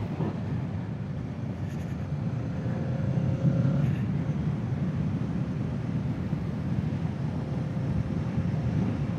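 Kawasaki Z650 parallel-twin engine running steadily at road speed, mixed with wind and road rumble.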